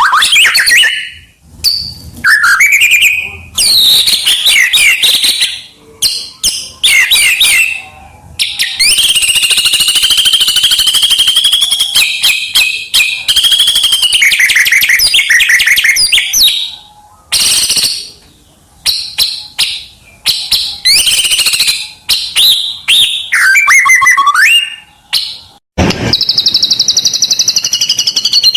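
White-rumped shama (murai batu) singing loudly in a long, varied song of rich whistles, rapid trills, chattering runs and sweeping notes, phrase after phrase with short pauses. About nine seconds in it runs into a long unbroken stretch of chatter, and near the end it settles into a steady fast trill.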